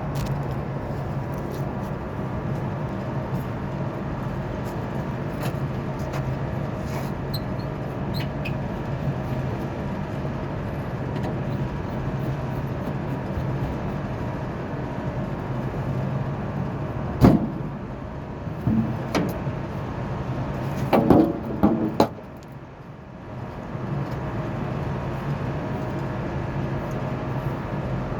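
Rooftop HVAC unit running with a steady mechanical hum. Partway through there is a sharp knock, then a few metallic clanks and knocks.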